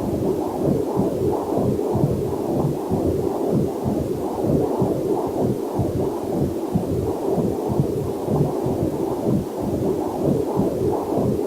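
Heartbeat picked up through a fetal Doppler monitor: a fast, even train of whooshing pulses.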